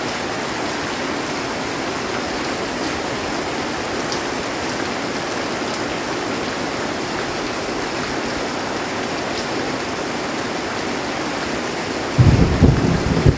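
Heavy rain drumming steadily on a metal roof. About twelve seconds in, a loud, low rumble of thunder breaks in suddenly and goes on.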